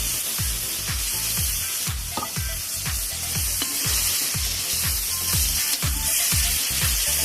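Seafood sizzling as it fries in hot oil with garlic in a pot, over background music with a steady bass beat.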